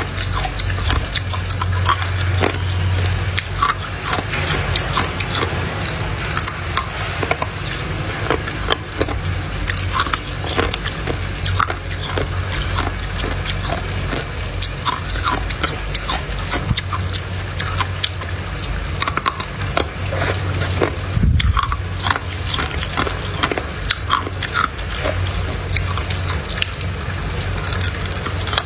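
Hard ice cubes being bitten and chewed, a dense run of irregular sharp crunches and cracks, over a steady low hum.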